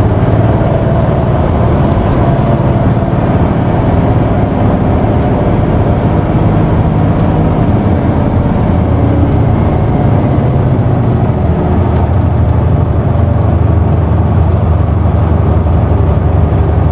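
Isuzu PKG-KV234L2 city bus's six-cylinder turbo diesel running at low revs, heard from inside the passenger cabin, as the bus slows and comes to a stop. The engine sound stays steady and low.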